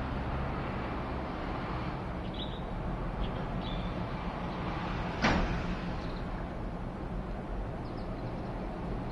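Aircraft flying overhead: a steady low rumble, with one brief sharp noise about five seconds in.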